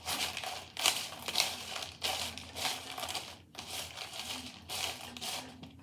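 Dry snack mix of sugar-coated cereal, pretzels, white chocolate chips and M&Ms being stirred in a bowl: rustling, crunching strokes about twice a second, stopping just before the end.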